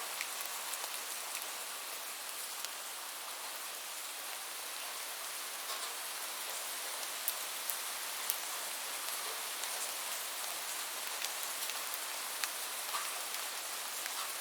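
Steady rain falling, a continuous hiss with scattered sharp ticks of individual drops striking a surface.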